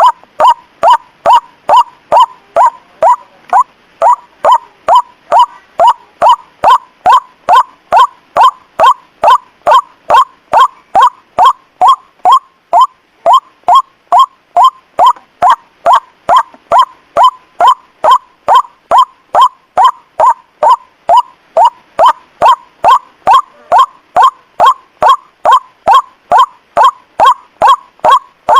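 White-breasted waterhen (ruak-ruak) call played as a bird-trapping lure: one short sweeping note around 1 kHz repeated in a fast, even series of about two and a half notes a second.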